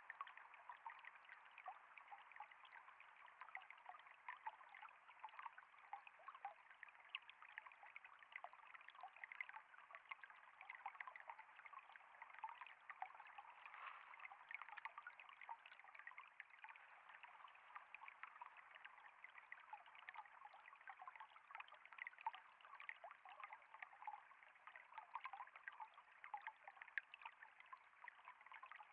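Water trickling and flowing steadily: a faint, continuous run of small splashes and dribbles.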